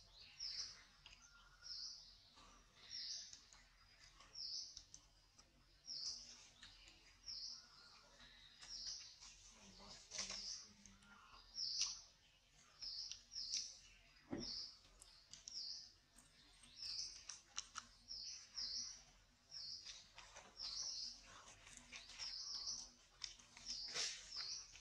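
A bird chirping over and over, a short high note about once a second, quiet, with a few faint clicks and a low knock about halfway through.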